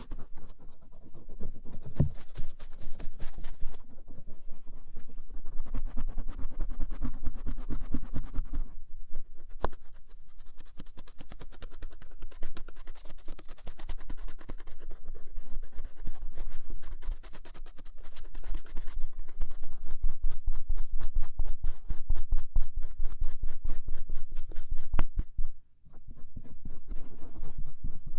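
Cotton swab rubbing and scratching over the outer ear (auricle), close up, in dense, continuous scratchy strokes, with a brief pause a little before the end.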